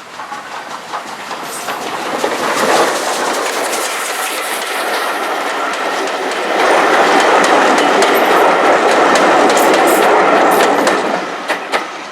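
A train passing close by on a heritage railway, wheels clattering over the rail joints. The sound builds, is loudest a little past the middle, then fades near the end.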